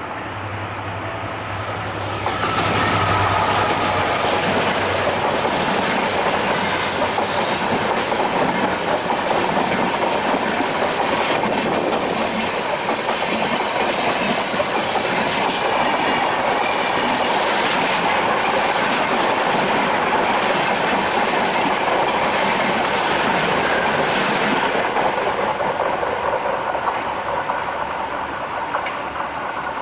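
Sundarban Express, an EMD GT42ACL diesel locomotive hauling LHB coaches, passing at speed. The locomotive's diesel drone comes first, and about two seconds in the sound swells into the steady noise of the coaches' wheels running on the rails, with scattered clicks from the rail joints. It fades near the end.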